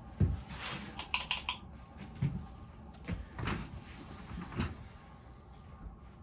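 Scattered clicks and knocks, a quick cluster about a second in, from hands working the stopped ceiling fan to switch it into reverse.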